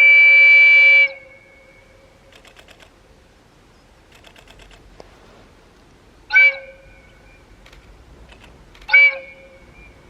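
Train horn of a Tadami Line diesel railcar: a long blast that cuts off about a second in, then two short toots, each with its tone trailing briefly after it. Faint clusters of light ticking can be heard between them.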